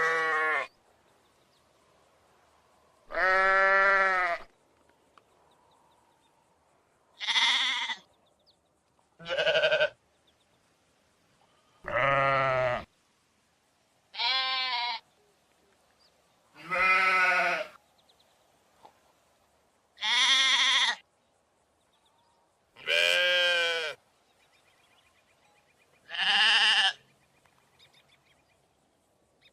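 A series of about ten separate livestock bleats, sheep or goat kind, each lasting about a second with a wavering pitch, spaced two to three seconds apart. The calls differ in brightness from one to the next, as if taken from different sound-effect recordings.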